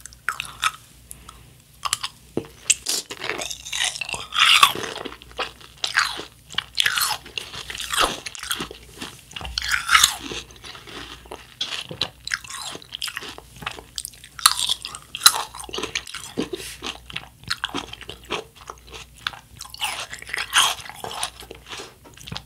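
Close-miked chewing of a mouthful of watermelon hwachae (watermelon fruit punch with ice): wet, irregular crunching and squishing bites.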